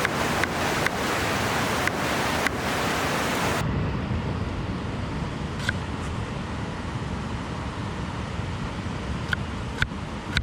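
River water flowing, a steady rushing hiss, with a few sharp clicks now and then. About a third of the way in the rushing turns duller and lower.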